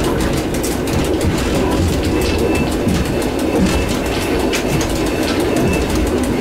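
EN57 electric multiple unit running along the line, heard from inside the driver's cab: a steady rumble of wheels on rail with a quick run of rail-joint clicks.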